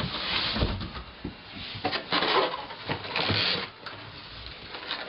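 Handling of packaging while unpacking a boxed projector: several bursts of rustling and scraping, each under a second, with a few sharp knocks.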